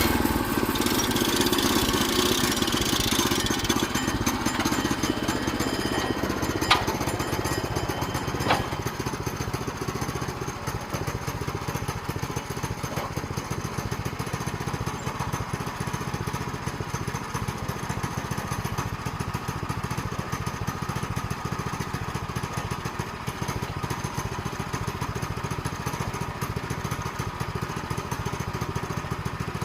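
Portable sawmill's small gas engine running steadily, easing down a little over the first several seconds and then holding even. Two sharp clicks sound about seven and eight and a half seconds in.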